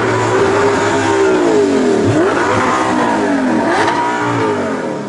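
Supercar engine revving hard, its pitch climbing and dropping several times in quick succession.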